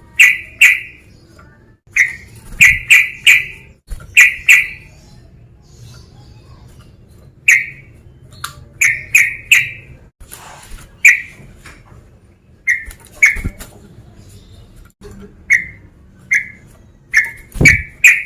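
Yellow-vented bulbul (trucukan) calling loudly: short, bubbly notes in clusters of two or three, repeated every second or so with brief pauses, the male's call used as a lure to provoke other bulbuls.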